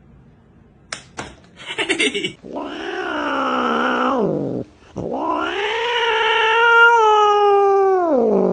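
Cat yowling: two long drawn-out calls, each falling in pitch at the end, after a couple of sharp clicks and a short rattle about a second in.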